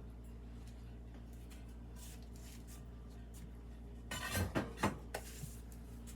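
Glazed ceramic pieces clinking and knocking together as they are lifted out of a kiln, with a short cluster of louder clinks about four seconds in, over a steady low hum.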